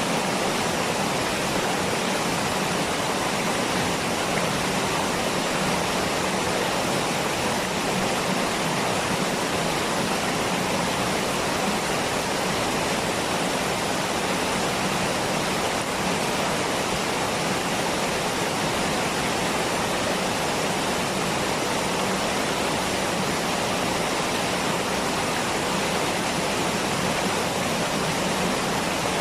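Waterfall: falling water making a steady, even rushing hiss with no breaks or changes.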